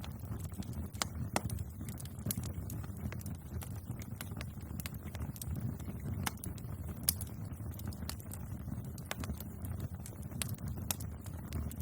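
Bonfire crackling: irregular sharp pops and snaps of burning wood, scattered several to a second, over a steady low rumble of the flames.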